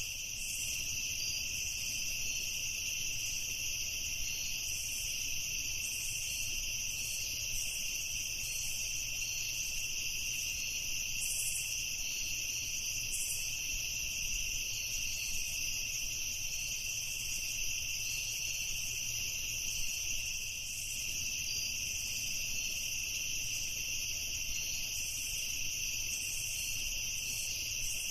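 Crickets chirping in a dense, unbroken, high-pitched chorus at an even level.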